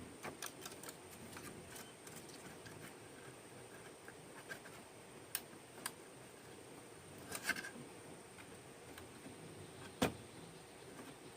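Sparse light clicks and taps, a few in quick clusters, with one sharper knock near the end, over a faint steady high-pitched hum.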